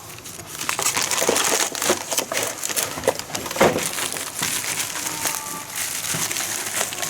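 Rustling and crinkling with scattered clicks and knocks of things being handled, one knock louder about three and a half seconds in.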